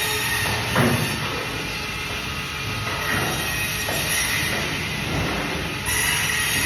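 Band saw running and cutting through fish: a steady high-pitched whine with a few heavier strokes as the fish is pushed through the blade.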